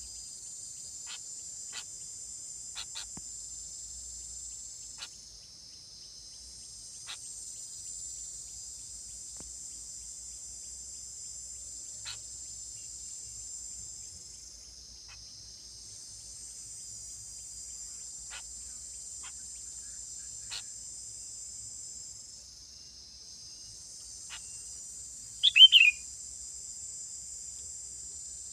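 Steady high-pitched insect chorus that swells and dips every several seconds, with a few faint chirps. About 25 seconds in, a bird gives one brief, loud call that falls in pitch.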